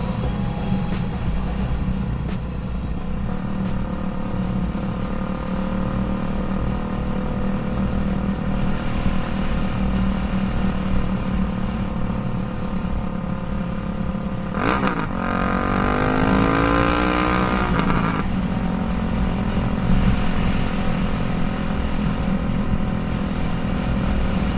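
Motorcycle riding noise: a steady engine drone. A pitched sound that bends up and down runs for about three seconds, some two-thirds of the way through.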